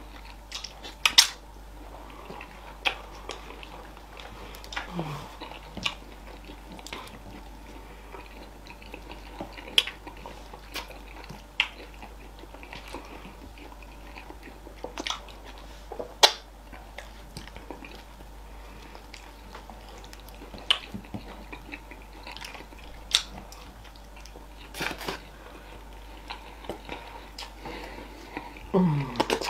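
Close-miked eating: two people chewing big mouthfuls of fufu with okra soup and fish. Short sharp wet smacks and clicks come at irregular intervals.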